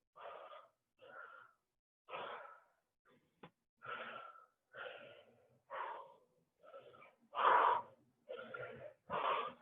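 A woman breathing hard from exertion during squats: short, noisy breaths in and out, about one a second. A single small click comes about three and a half seconds in.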